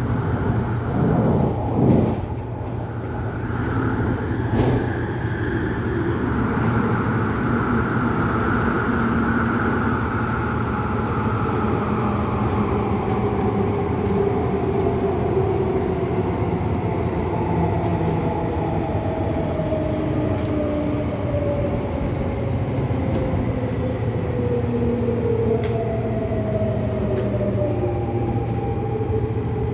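MTR Tung Chung Line CAF train running on the rails with a steady rumble. Its motor whine glides slowly downward in pitch as the train slows. Two knocks come in the first five seconds.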